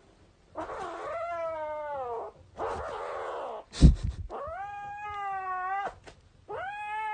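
A domestic cat yowling in four long, drawn-out calls, the first sliding down in pitch. A brief sharp knock about four seconds in.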